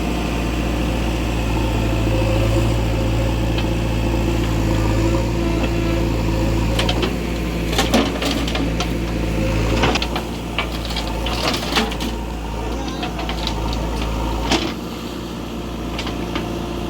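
Diesel engine of a JCB 3DX backhoe loader running steadily while loading mud. A cluster of sharp clanks and knocks comes in the middle.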